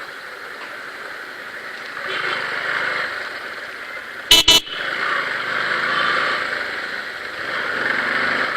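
Steady road and wind noise from riding a motorcycle in traffic, cut about four seconds in by two short, loud horn toots in quick succession.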